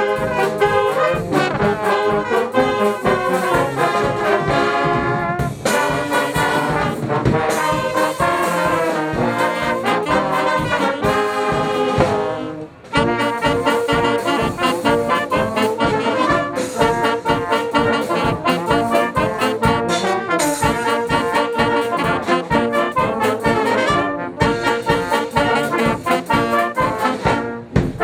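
Brass band playing live with a steady beat; the music breaks off for a moment about 13 seconds in, then carries on.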